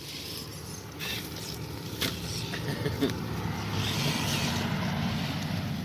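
Radio-controlled scale trail truck crawling over rough ground: its electric motor and gears run steadily, with sharp knocks about two and three seconds in as the truck bumps over the terrain.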